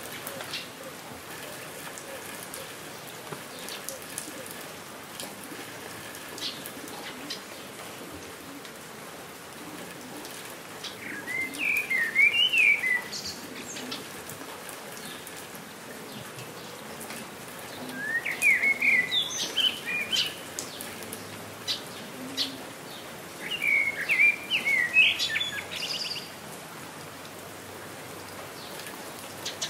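Steady rain falling, with scattered drops ticking. A songbird sings three short phrases of quick chirps, starting about 11 seconds in and again twice near the end.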